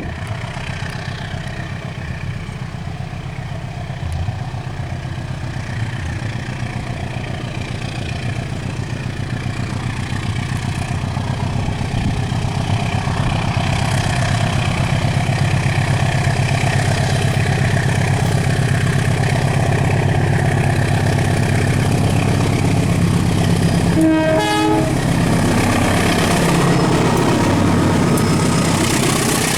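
A locomotive-hauled train approaches, its engine drone growing louder over the first half and then holding steady. It sounds one short horn blast a little over three-quarters of the way through.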